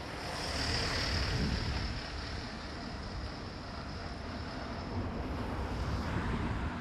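Wind buffeting the microphone with a heavy low rumble, over the wash of sea waves on the shore. A steady high hiss runs through most of it and fades out near the end.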